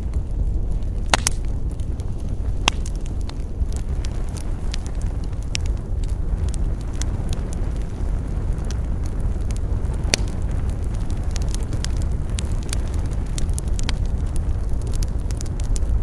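Campfire crackling, with irregular sharp pops, the loudest about a second in, over a steady low rumble.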